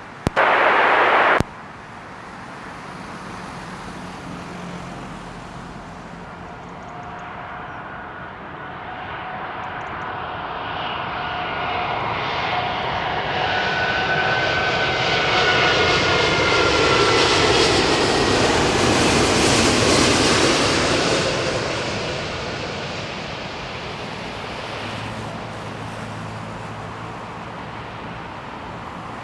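A short loud burst of radio static at the start, then a British Airways Airbus A380-841 on final approach passing by, its four Rolls-Royce Trent 970 turbofans building to a peak about two-thirds of the way through and then fading. Engine whine tones fall in pitch as it passes.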